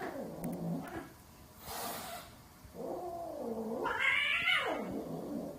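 Domestic cats yowling at each other in a fight standoff: drawn-out caterwauls that rise and fall in pitch, a short hiss about a second and a half in, and a longer yowl near the end that climbs high and drops again.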